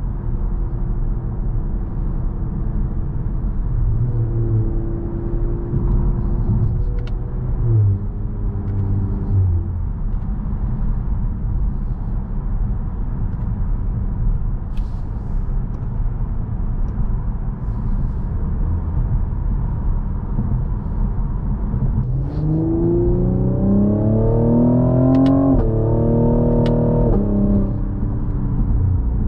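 Cadillac CT5-V's twin-turbo 3.0-litre V6, heard from inside the cabin, over steady road and tyre rumble at cruising speed. About 22 seconds in, the engine note rises under acceleration and steps down in pitch twice as the 10-speed automatic shifts up, then settles back to cruise.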